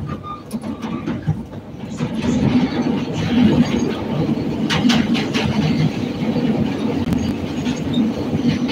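CTA Red Line rapid-transit train running along the track with a steady rumble. It grows louder from about two seconds in as another train passes close alongside, and a few sharp wheel clacks come about five seconds in.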